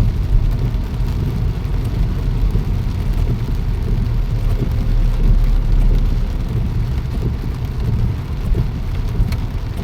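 Steady low rumble of a vehicle on the move in the rain, with rain noise.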